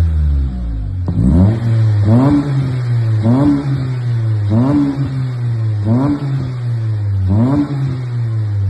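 Honda Civic EP2 Sport's engine and exhaust revved stationary: six quick throttle blips about a second apart, each rising and dropping back to a steady idle.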